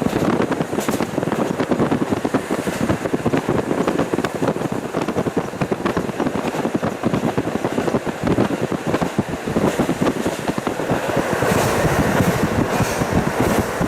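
KiHa 40 diesel railcar running along the line, heard through a fully open window: engine and wheels on the rails with a dense rattle, and wind buffeting the microphone. It grows a little louder near the end.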